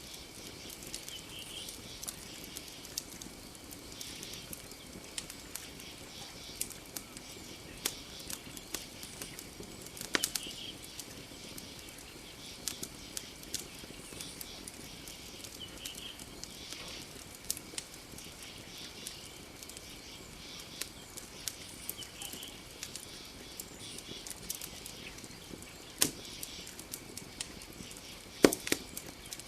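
Campfire crackling steadily with frequent small snaps and a few louder pops, the loudest a pair near the end.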